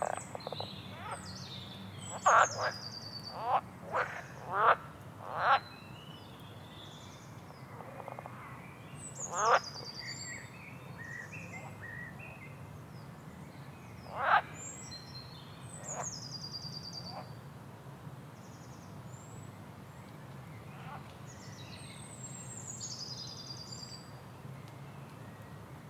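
Frogs calling with short, loud, rising croaks, about six in quick succession in the first few seconds and then single ones twice more, while birds sing high, falling, trilled phrases every few seconds over a steady low background hum.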